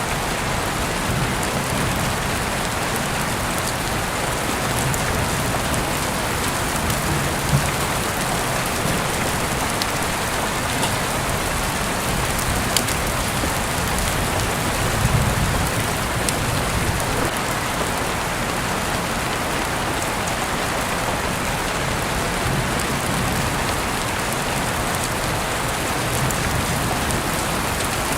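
Steady rain falling as an even hiss, with a few sharp ticks scattered through it and a brief low swell about halfway.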